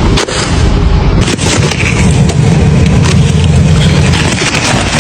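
Car stuck in snow and ice, its engine running while the wheels spin and crunch and scrape against packed ice, with short cracks throughout.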